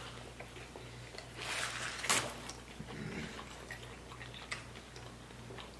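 Chewing of a fried chicken sandwich, with soft mouth clicks and small crunches, and a louder burst of crunching about two seconds in.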